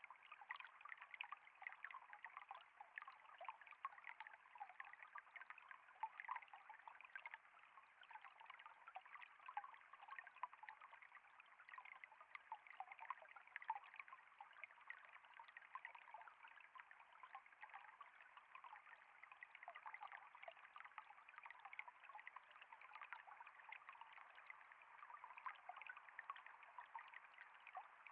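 Water flowing in a faint, steady trickle, full of small splashes and flickers that never let up.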